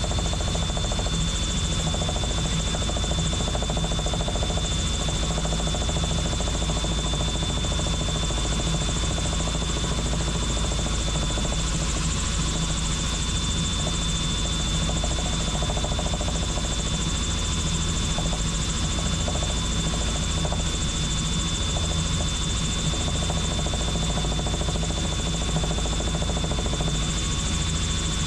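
Helicopter in flight: steady rotor and engine noise with a thin high whine running through it.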